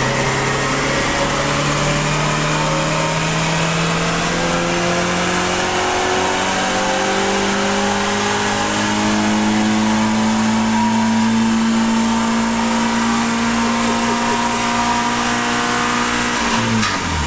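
Renault Clio 197's four-cylinder engine pulling at full throttle on a chassis dyno, its pitch climbing steadily through the revs for about sixteen seconds. Near the end the revs fall away sharply as the throttle is lifted.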